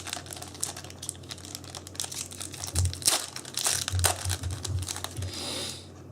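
Foil booster pack wrappers crinkling and tearing as packs are opened and handled, in irregular rustles with louder bursts about three and four seconds in; the rustling stops just before the end.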